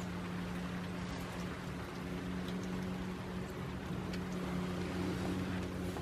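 Steady rain with scattered faint drip ticks, under a steady low hum.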